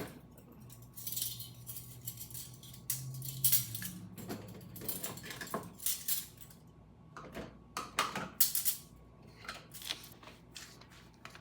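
Dishes and silverware clinking and clattering as they are taken out of a dishwasher and put away: irregular clinks with louder clatters about a third of the way in and again after eight seconds.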